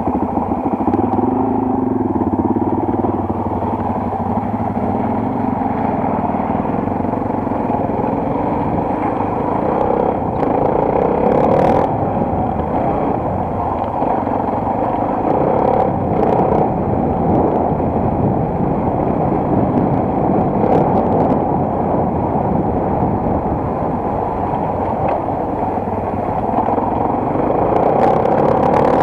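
Single-cylinder four-stroke enduro motorcycle engine running under way, with a few short knocks and clatters partway through.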